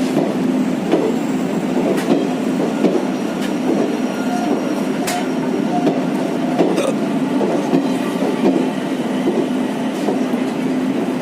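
Moving passenger train running on the track: a steady running noise with a low hum, and scattered sharp clicks of wheels over rail joints.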